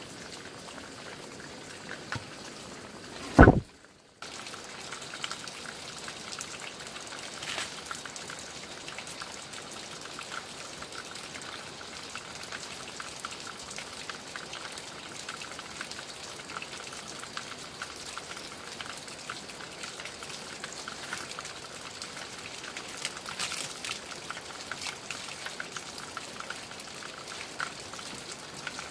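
Steady patter of light rain. About three seconds in there is one loud thump, followed by a brief dropout to near silence.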